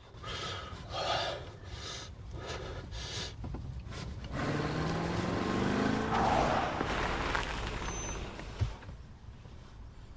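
Short, heavy breaths, then a car drives up: its engine note rises in pitch over tyre noise and fades, with a sharp click near the end.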